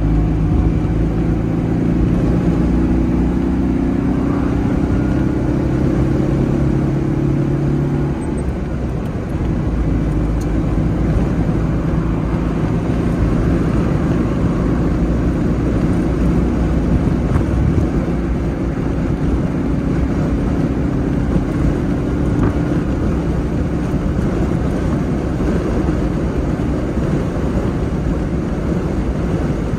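Citroën 2CV's air-cooled flat-twin engine running at road speed, heard from inside the cabin together with wind and road noise. Its steady note breaks off about eight seconds in with a brief dip in loudness, and after that it is mostly covered by the wind and road noise.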